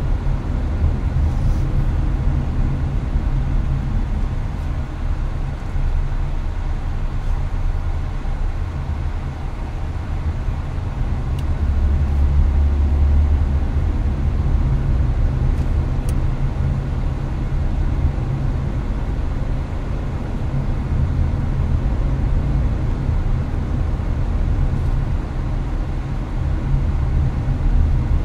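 Inside a Hyundai Avante's cabin at highway speed: a steady low rumble of road and engine noise under the air-conditioning fan's hiss, swelling briefly about twelve seconds in.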